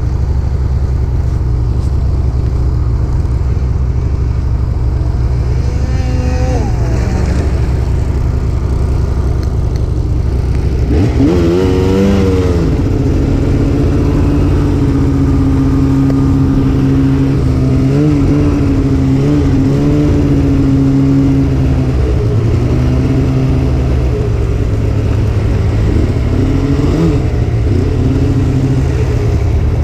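Snowmobile engine running at a low steady speed, then revving up about eleven seconds in and holding a higher steady pitch as the sled accelerates and cruises, with small rises and dips in speed.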